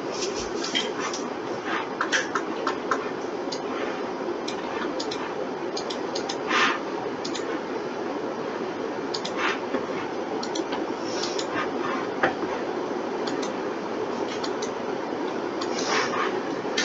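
Irregular, scattered clicks of a computer mouse and keyboard over a steady background hum.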